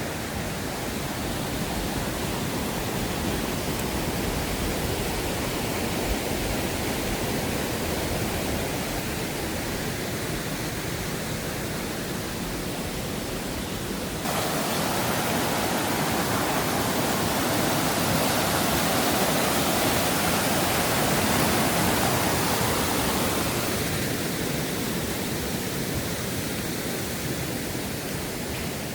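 Rain-swollen mountain stream rushing in a steady torrent. About halfway through the sound jumps suddenly louder and hissier, then eases back near the end.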